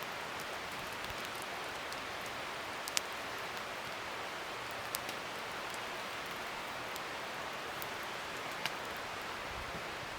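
Wood fire burning: a steady hiss with three sharp crackling pops, the loudest about three seconds in.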